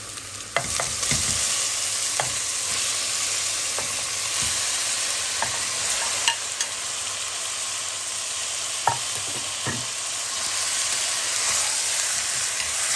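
Raw lamb mince hitting hot oil with garlic and green chillies in a stainless steel pot and frying. The sizzle jumps up about half a second in as the meat lands and stays steady, with a few sharp knocks and scrapes of a spoon against the pot as it is stirred.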